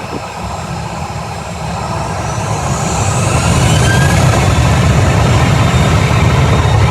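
Jet airliner engines: a deep rumble that grows louder over a couple of seconds and then holds loud, with a faint whine rising in pitch over it.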